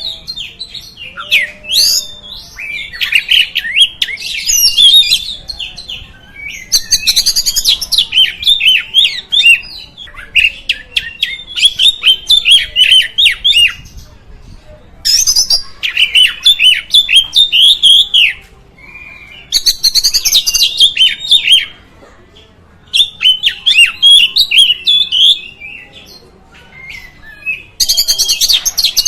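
Oriental magpie-robin (kacer) singing in bouts of rapid, varied high chattering and whistled phrases, each two to four seconds long, with short pauses between.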